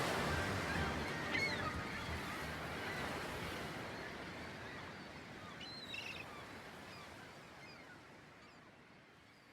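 Outdoor ambience with a few short bird chirps, the whole sound fading out slowly and steadily.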